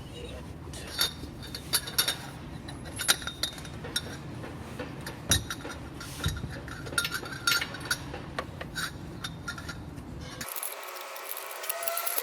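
Metal hand tools and parts clinking and tapping against each other in irregular sharp clicks, over a steady low background rumble that stops abruptly about ten seconds in.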